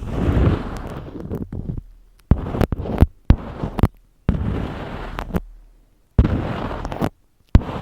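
Close-miked crunching and crackling of an object being handled, in a series of noisy bursts each lasting up to about a second and a half, with sharp clicks between them.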